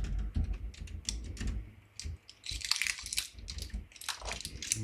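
Irregular clicks, taps and rustling of hands handling and fitting plastic and metal parts of a small PC case.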